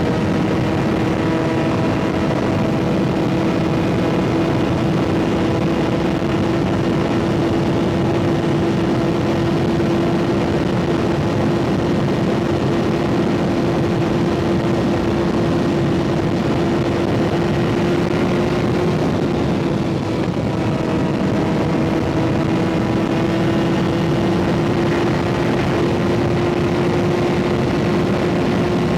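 Kawasaki ZX-6R 636's inline-four engine through an M4 aftermarket exhaust, holding steady cruising revs with its pitch creeping slowly up, over a rush of wind noise. The engine note dips briefly about twenty seconds in, then picks up again.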